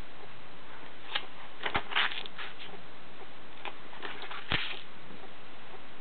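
Steady background hiss with a few short, faint clicks and rustles scattered through it.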